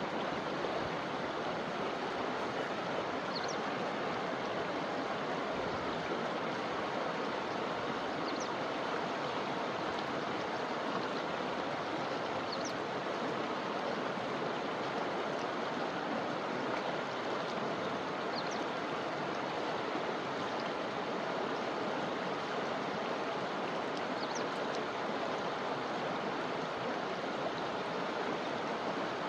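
A forest river flowing: a steady, even rush of water.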